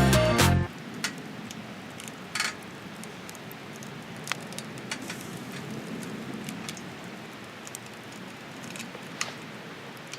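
Wood campfire crackling, a soft steady hiss with scattered sharp pops at irregular times. Background music cuts off in the first second.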